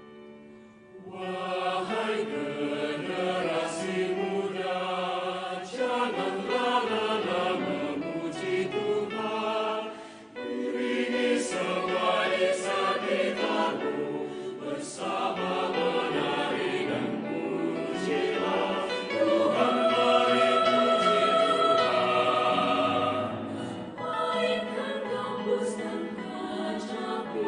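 A choir singing, starting about a second in, with a short break about ten seconds in.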